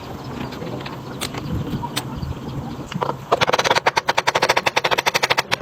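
A fast, loud rattle of sharp mechanical clicks, about a dozen a second, starting a little past halfway, over a low steady hum.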